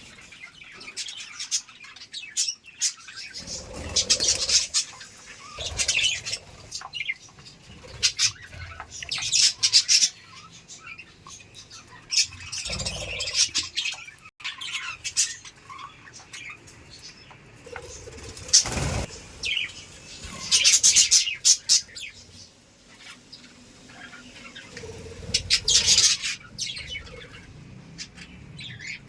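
Budgerigars chirping and chattering in repeated bouts, with a sharp, louder sound about nineteen seconds in.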